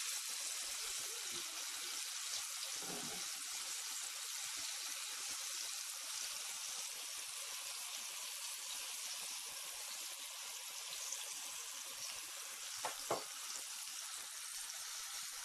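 Breaded chicken strips shallow-frying in hot oil in a frying pan: a steady sizzle, with a couple of brief knocks near the end.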